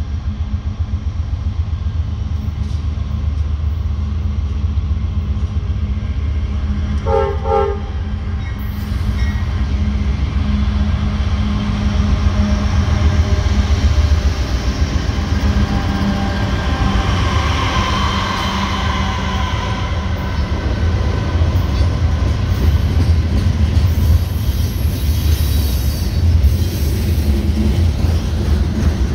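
Norfolk Southern manifest freight train passing close by, with the heavy running of its diesel locomotives. A brief horn blast sounds about seven seconds in, then the steady rumble and clatter of freight cars rolling past.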